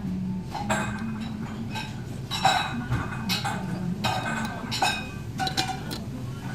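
Ceramic bowls, dishes and cutlery clinking: about a dozen sharp clinks at irregular intervals, over a low steady hum.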